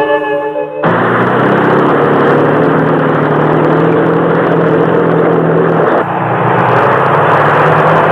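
Music stops just under a second in and gives way to a loud, steady engine drone, with a brief dip about six seconds in.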